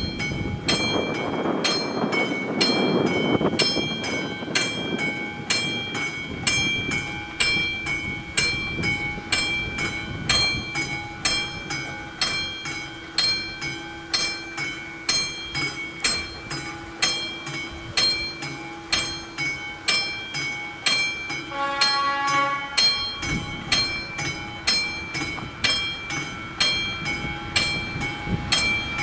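Electromechanical bell of a Czech level crossing's warning signals ringing, starting suddenly and striking in a fast, even rhythm of bright ringing strokes. A rumble sits under it for the first few seconds, and a brief pitched tone sounds about 22 seconds in.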